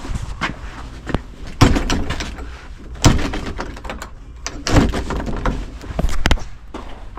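A series of loud knocks and thumps, about four heavy ones a second or so apart, with smaller clatter between them.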